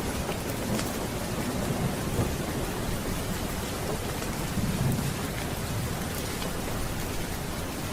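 Steady rain with low thunder rumbling underneath, swelling twice, about two and five seconds in.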